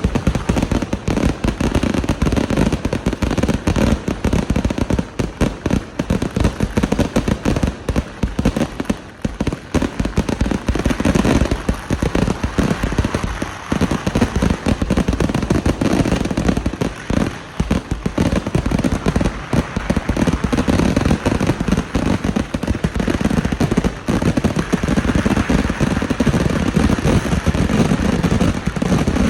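Dense, continuous barrage of firecrackers going off, the bangs running into one another without a pause.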